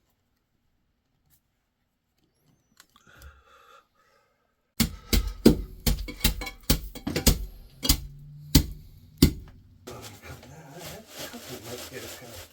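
A run of loud, sharp knocks about twice a second, then steady rasping strokes of a saw cutting through plastic drain pipe.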